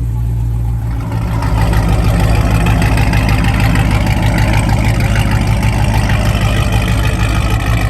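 A Jeep's engine idling steadily with a fast, even low pulse, getting louder about a second in and then holding.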